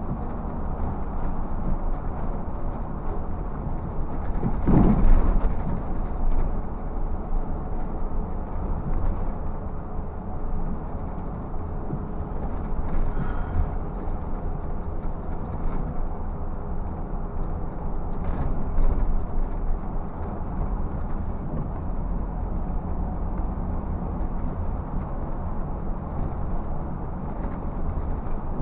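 Steady rumble of a Scania bus driving, heard from inside: engine and road noise, with a few short knocks and one louder swell about five seconds in.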